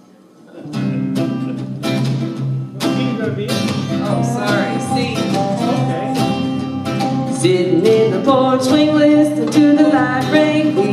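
Bluegrass band starting up about a second in, acoustic guitar and other plucked strings playing the upbeat intro of a country song, live.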